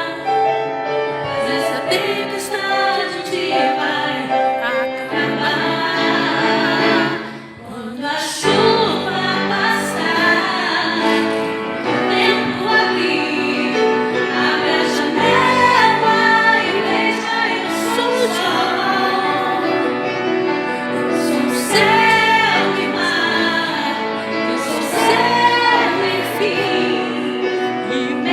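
A woman singing in Portuguese over instrumental accompaniment, with a brief drop in the music about seven seconds in.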